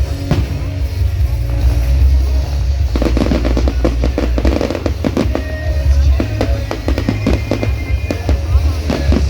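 Fireworks going off: a single bang at the start, then a dense, rapid crackle of many small bursts from about three seconds in. Loud music with heavy bass plays underneath.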